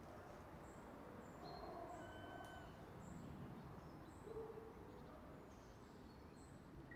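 Faint birdsong: short, scattered high chirps and whistled notes over low, steady background noise.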